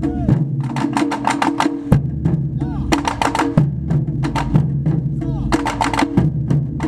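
Japanese taiko drums played in a rapid rhythm of sharp strikes. Held low notes underneath change pitch every second or two, and a few short gliding notes sound above them.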